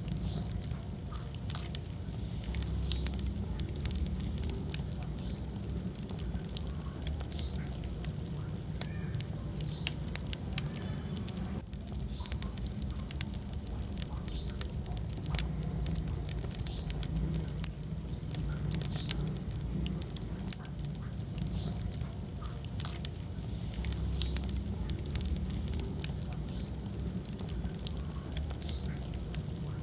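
Wood fire burning in a fireplace: dense, irregular crackles and pops over the steady low rumble of the flames.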